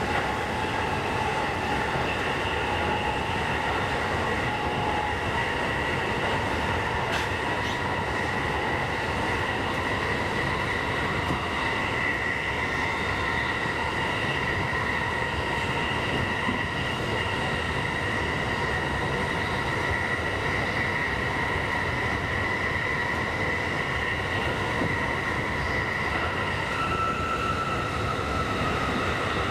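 Running noise inside a JR East Tokaido Line commuter train car between stations: a steady rumble of wheels on track under several steady high whining tones. Near the end the whine changes, with a new lower tone coming in.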